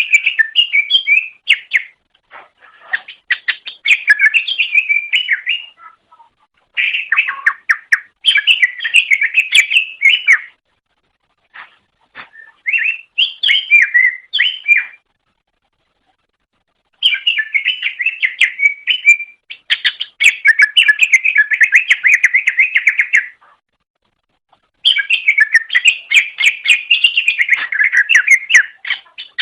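Cucak ijo (greater green leafbird) singing: bouts of fast, chattering whistled phrases, each a few seconds long, separated by short pauses.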